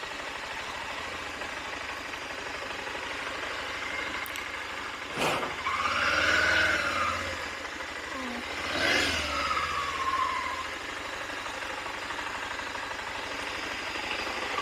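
Motorcycle engine running steadily at low speed, with two louder swells about five and nine seconds in where the pitch rises and then falls.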